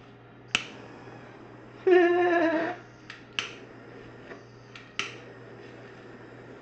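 Three sharp clicks from a handheld blowtorch's igniter being triggered to light it. About two seconds in comes a louder, short, held pitched sound lasting just under a second, from an unidentified source.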